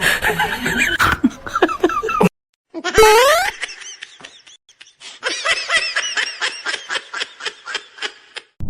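Laughter, a long run of quick repeated high-pitched 'ha' sounds, a few a second, starting about halfway through; a short rising glide comes before it.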